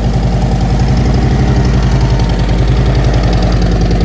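Harley-Davidson V-twin motorcycle engine idling steadily with an even, pulsing beat.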